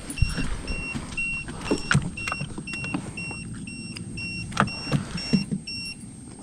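A high electronic beep repeating evenly about four times a second, stopping near the end, with scattered knocks and thumps of handling in a boat.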